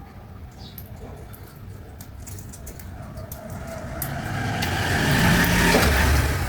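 A motor vehicle passing, its engine and road noise building to a peak over the last couple of seconds.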